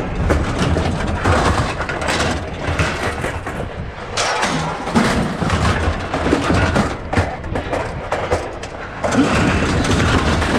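A load of scrap metal clattering and crashing as it is dumped off a truck, with many knocks and bangs over the steady rumble of a running engine.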